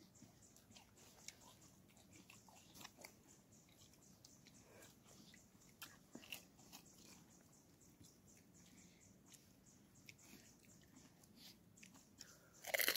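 Near silence broken by faint, scattered crunches and chewing as crisp panipuri shells are eaten, with a louder crunch near the end.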